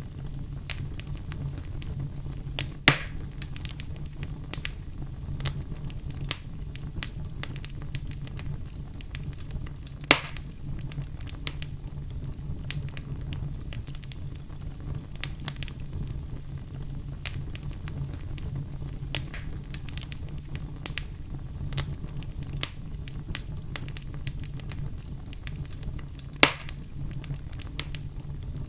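Fire crackling in a fireplace: a constant scatter of small pops, with three much louder snaps, about 3, 10 and 26 seconds in, over a steady low rumble.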